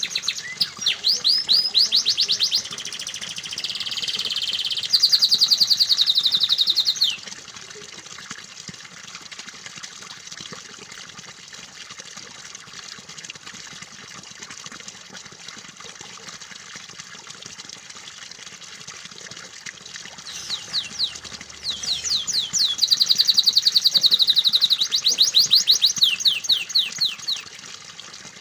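Canary singing in fast, rapid-fire trills over steady running water. The trills stop about seven seconds in, leaving the water on its own, and start again about twenty seconds in.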